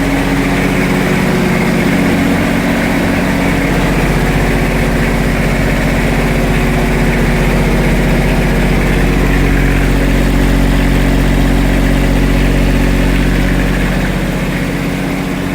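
Cummins generator's slow-turning Kubota three-cylinder diesel engine running steadily shortly after a cold start, slightly quieter near the end.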